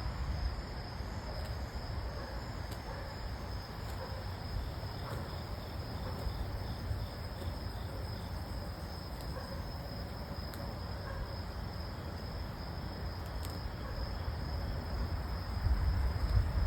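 Steady high-pitched trilling of crickets or other insects, over a low, even background rumble, with a few faint clicks.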